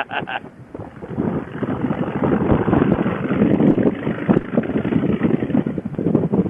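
Motorcycle riding noise: wind rushing over the microphone with the engine running underneath, a steady rush that grows a little louder about a second in.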